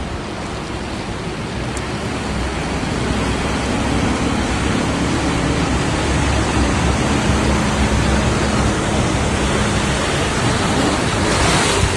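Loud, steady rush of water, growing a little louder over the first few seconds and briefly brighter near the end, with a faint low hum underneath.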